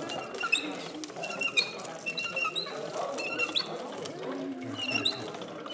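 Small birds chirping: short, high chirps, many with a quick upward flick, repeating every half second or so over a low, uneven background murmur.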